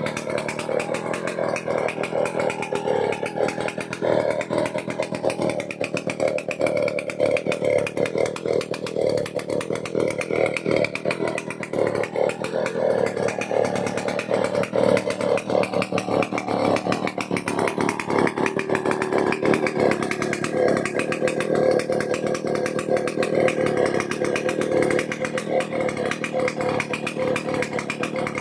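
Vintage Stihl 070 AV two-stroke chainsaw running continuously at high revs, its pitch wavering and dipping under load as it cuts through wood.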